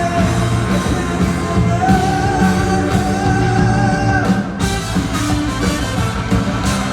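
Rock band playing live at full volume, with a long held note about two seconds in that stops around four seconds in.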